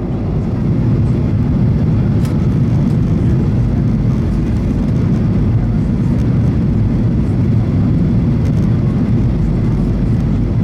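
Boeing 737-900ER cabin noise: the steady, heavy rumble of the jet engines and airflow, getting a little louder about a second in.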